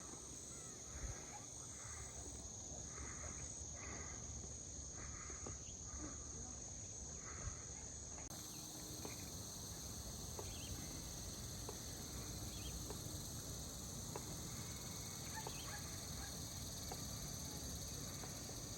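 Insects shrilling in a steady high drone that grows into a broader, fuller hiss about eight seconds in, over a low rumble.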